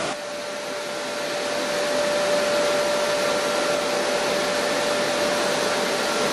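Chili powder milling line machinery running: a loud, steady rushing noise with a constant whine. The level dips at the start and climbs back over the first couple of seconds.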